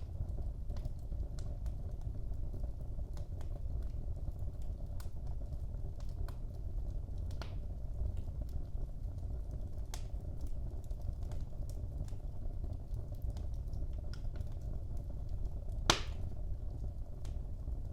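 Wood fire burning in a fireplace: a steady low rumble of flames with irregular small crackles and snaps, and one louder pop near the end.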